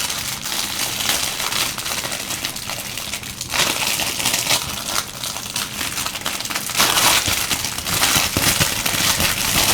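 Crinkly packaging rustling and crackling as it is handled and opened, getting louder about three and a half seconds in.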